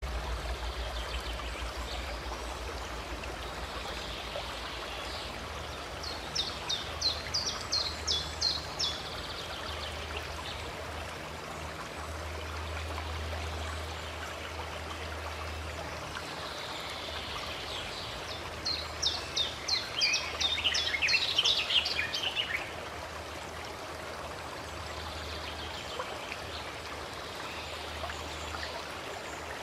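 Running stream, a steady rush of water. A songbird sings two phrases of rapid repeated high notes, about six seconds in and again around nineteen seconds in.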